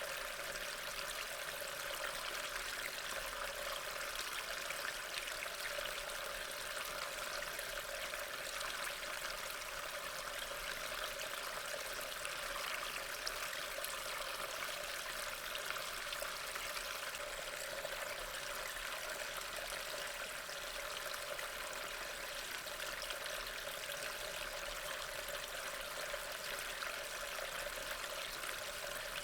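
Steady rain: an even, unbroken hiss of falling water, with no separate drops standing out.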